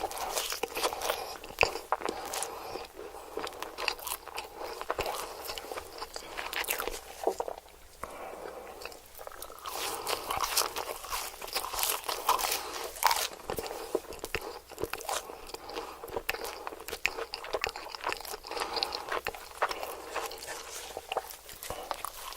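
Close-miked ASMR eating: a person biting and chewing crisp food, a dense run of sharp crunches with a quieter lull about eight seconds in.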